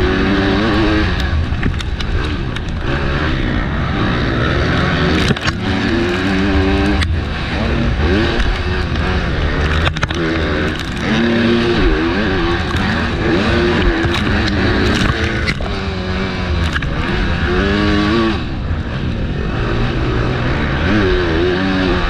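MX2 motocross bike engine revving hard and dropping back over and over as the rider accelerates, shifts and backs off around the track, with wind noise on the microphone. A few sharp knocks cut through in the middle.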